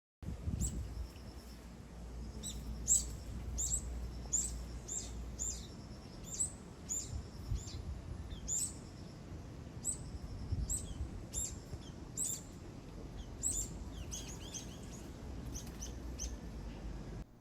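Brown-eared bulbul chirping: many short, sharp high calls, each dropping quickly in pitch, about one or two a second, over a low background rumble.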